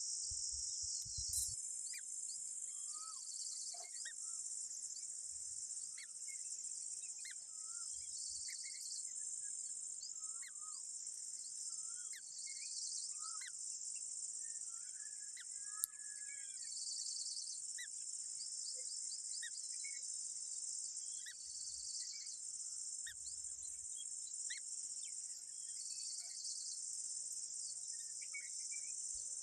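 A steady, high-pitched insect chorus of crickets or cicadas, swelling and dipping every few seconds, with many short whistled bird chirps and slurred notes scattered over it. A single sharp click sounds about halfway through.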